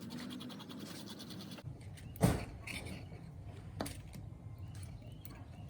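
Workshop handling sounds: a fast, even scraping rhythm for about a second and a half, then one sharp knock and a few lighter clicks.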